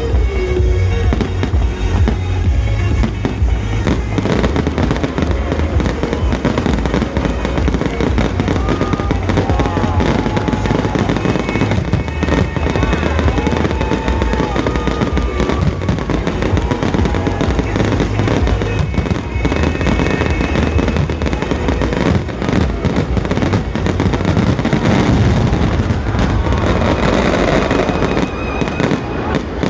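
Fireworks finale: a dense, continuous barrage of shell bursts and crackles over a heavy low rumble. Music plays loudly underneath.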